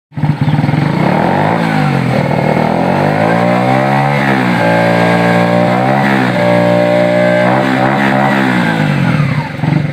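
A new motorcycle's engine revved hard through its exhaust in an exhaust test. The pitch climbs and falls several times, is held high for a second or so in between, and drops back near the end.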